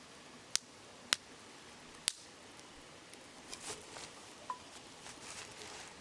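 Wood campfire crackling: three sharp pops in the first two seconds, then a run of smaller crackles, over the steady hiss of a river flowing over stones.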